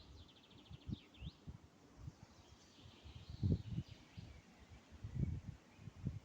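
Small songbirds chirping, with a quick trill at the start and scattered short calls after, over a steady outdoor hiss. Low muffled thumps come now and then and are the loudest sounds.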